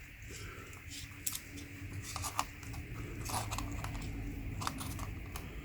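Light metallic clicks and scraping from handling and measuring the cut-open oil filter's metal can, several short sharp clicks scattered through, over a low steady hum.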